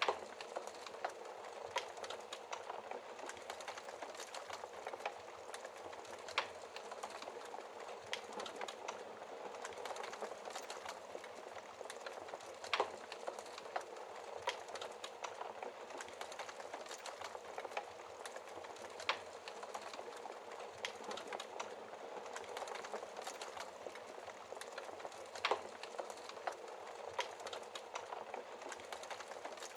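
Wood fire crackling in a fireplace: a steady hiss with frequent small crackles and a louder pop every few seconds.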